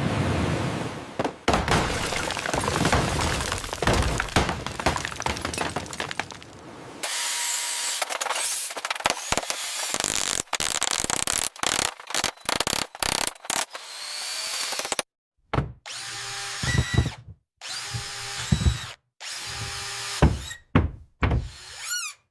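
Power tools running, drilling, mixed with knocks and scraping, in a string of short edited clips. About halfway through it breaks into short bursts with a steady motor whine, separated by sudden silences.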